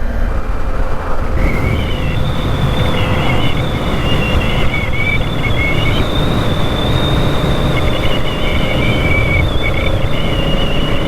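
Honda Africa Twin's parallel-twin engine running at road speed under heavy wind noise on the microphone. A thin high whine joins about a second and a half in and runs on.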